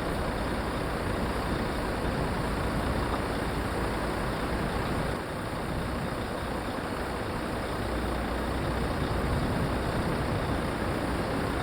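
Truck engines running with a steady low rumble and road noise, dipping slightly about five seconds in.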